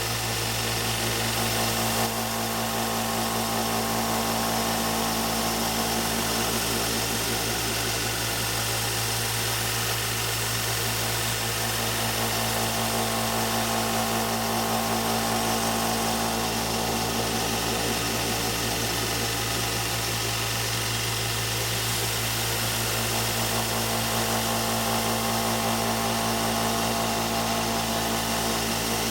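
Wilton belt sander running steadily with a 20 micron polishing belt, a constant motor hum under the hiss of the belt as a knife edge is sharpened and polished on it.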